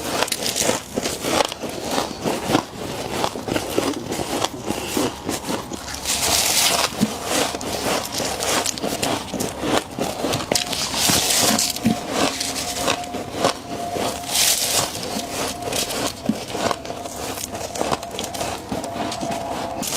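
Humidifier frost being scraped off and chewed close to the microphone: continuous crisp crackling crunches, with a few brief louder scraping hisses.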